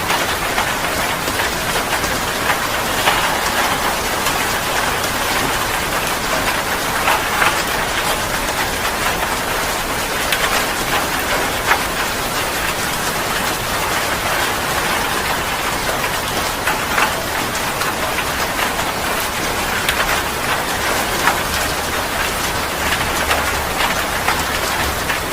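Heavy rain falling steadily, a dense even hiss pocked with many sharp drop impacts on a surface.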